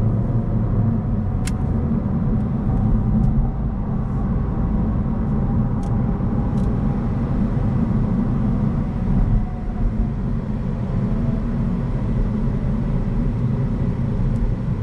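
Steady low rumble of a 2025 Honda Civic driving, road and engine noise heard from inside the cabin, with a few faint clicks.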